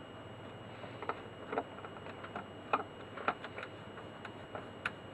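Small screws and a screwdriver being handled and fitted into a record player's front plate: light, irregular clicks and ticks, about half a dozen.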